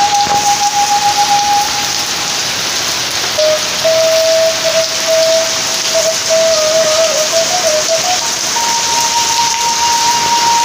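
Steady rain falling on leafy potted plants and tiled paving, a dense even hiss. Over it runs a thin melody of long held notes that steps up and down in pitch.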